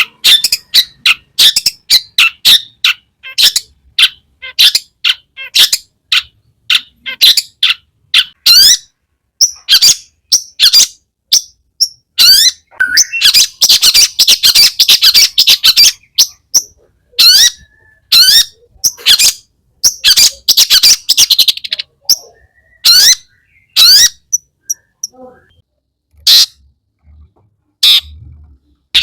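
Long-tailed shrike (cendet) singing a fast chattering song of short, sharp, high notes, with denser runs of chatter in the middle. The song thins out to scattered notes near the end.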